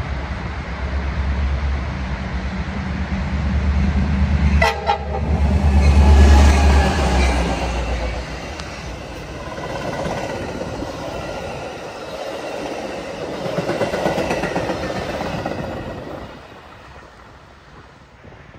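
Metra commuter train passing close by. A diesel locomotive's engine rumbles heavily for the first eight seconds, with a short horn blast about four and a half seconds in. The train's wheels then clatter over the rail joints as the cars go by, fading out about sixteen seconds in.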